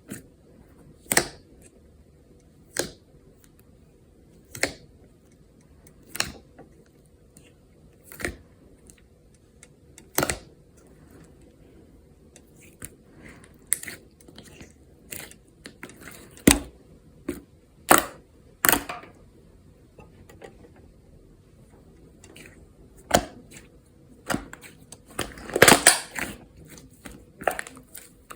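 Green leaf slime being pressed and squeezed by hand, giving sharp crackling pops. The pops come about every two seconds at first, then closer together, with a longer run of crackling near the end.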